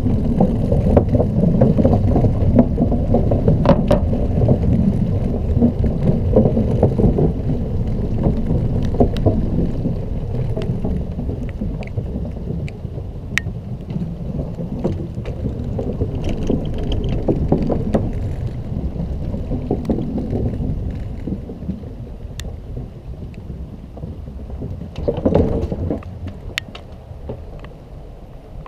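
Dense low rumble of wind and road vibration on a camera riding an electric scooter, with scattered sharp clicks and knocks. It eases off toward the end.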